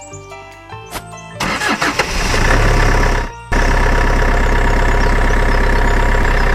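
Small engine cranking and catching about a second and a half in, then running loudly and steadily, broken by a brief cut a little past the middle. Background music plays before the engine starts.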